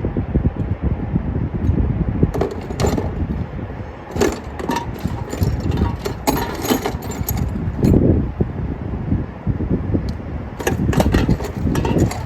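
Metal sockets clinking and rattling as they are handled and tried on a bolt, in several bursts of sharp clicks, over a steady low rumble.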